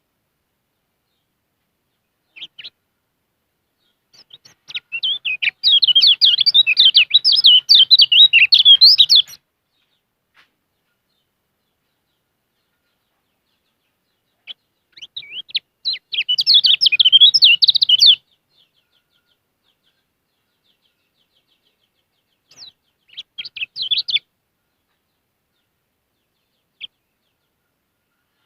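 Kecial kuning songbird singing: three bursts of rapid, high twittering chirps, the first and longest about five seconds, with a single short note before the first burst and another near the end.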